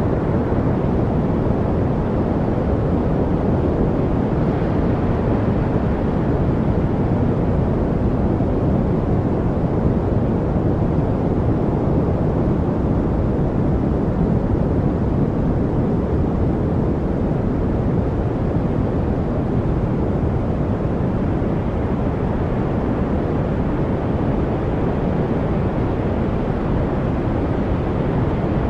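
Steady, unchanging noise with a deep, rumbling tone, heavier in the low end than a true white noise; no birds, drips or other separate sounds stand out.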